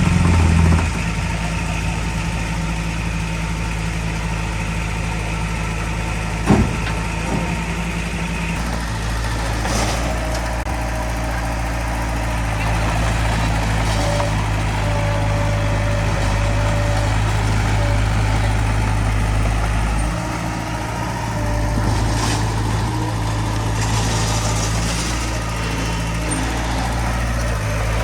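Heavy diesel machinery engine running steadily, its note and load shifting a few times, with a single sharp clank about six and a half seconds in.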